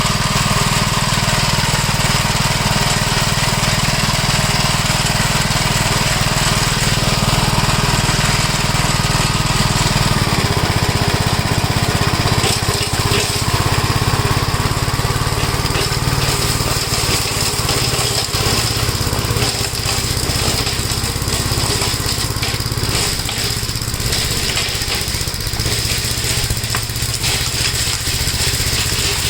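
1969 Gravely L walk-behind tractor running with its mower, engine steady. From about ten seconds in the sound turns rougher, with many ticks and rattles as it chops up nuts and leaves.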